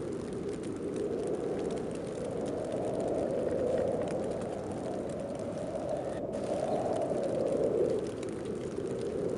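Snowstorm wind blowing steadily in slow gusts, its pitch wavering up and down as each gust swells and eases.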